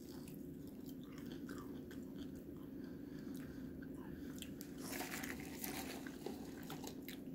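Faint crunching and chewing as a man bites into a crispy breaded Burger King Cheesy Tot, a tater tot filled with liquid cheese, and eats it.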